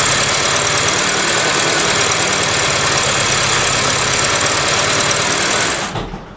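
Freshly rebuilt ZMZ-402 four-cylinder petrol engine in a GAZelle running steadily after its first start. The sound cuts off abruptly near the end.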